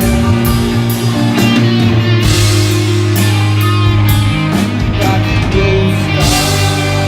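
Live rock band playing loudly: electric guitar and bass over a drum kit, with repeated cymbal strokes.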